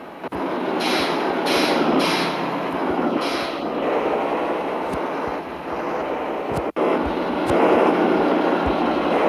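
Mitsubishi Fuso truck running, a steady rumble of engine and road noise, with four short hisses of air about one to three seconds in.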